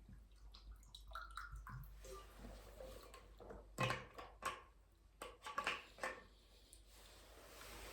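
Keyboard keys being typed on: irregular runs of soft keystroke clicks, with a few louder strokes around four and six seconds in.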